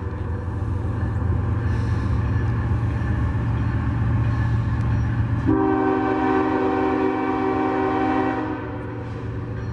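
Diesel freight locomotive with its engine rumbling steadily. Its multi-note air horn sounds one long blast of about three seconds, starting a little past halfway.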